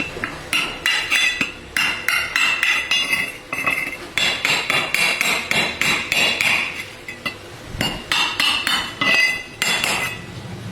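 Rapid metal-on-metal striking, like a hammer tapping on metal, several ringing blows a second with short pauses about four and eight seconds in.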